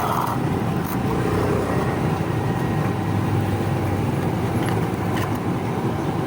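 Steady low rumble of road traffic, a vehicle engine running close by.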